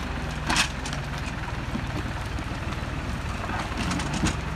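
Deutz-Fahr 4055 tractor's diesel engine running steadily under load while pulling logs, with a sharp crack about half a second in and a few smaller snaps near the end.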